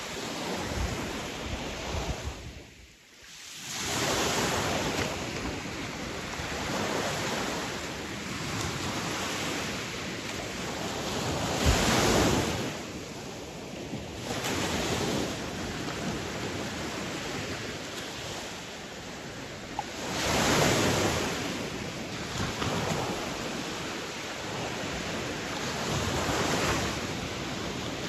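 Sea waves washing in, rising in a surge every several seconds and falling back, over a steady wash of surf and wind. The sound drops away briefly near the start.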